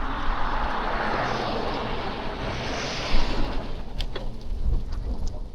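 A motor vehicle passing on a snowy street, its tyre hiss swelling for about three seconds and then fading. Wind rumbles steadily on the microphone underneath.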